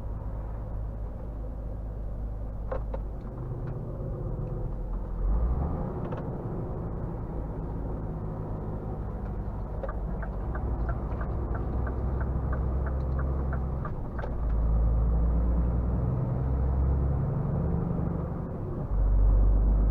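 Scania R450 truck's diesel engine running steadily while driving, a low rumble that grows louder about two thirds of the way through and again near the end as it pulls harder. About halfway through, a run of a dozen quick, evenly spaced ticks, nearly three a second, sounds over the engine.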